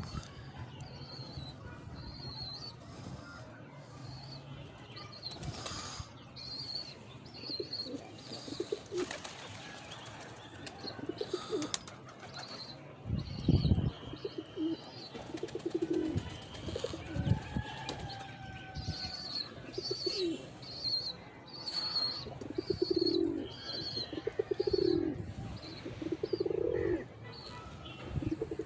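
Domestic pigeons cooing in repeated low calls that come more often in the second half, with wing flaps, one loud low thump a little before the middle, and rows of short high chirps.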